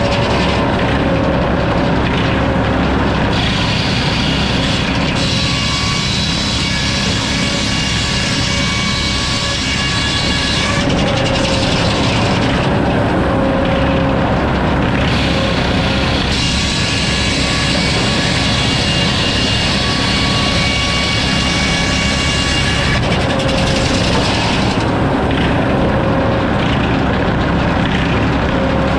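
A sawmill running and sawing a log: a steady machine drone with pitched tones, overlaid twice by a higher, brighter cutting sound that lasts several seconds and then drops away.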